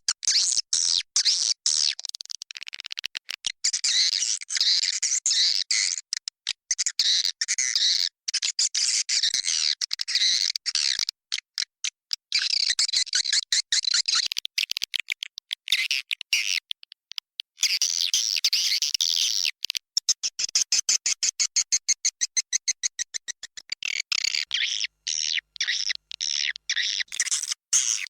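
Swiftlet calling sound for a swiftlet house: dense, rapid high twittering chirps and clicks in bursts with short breaks, thinning briefly about seventeen seconds in and turning into sparser, evenly spaced clicks near the end. It is the roosting ('inap') call played to draw swiftlets in to stay and nest.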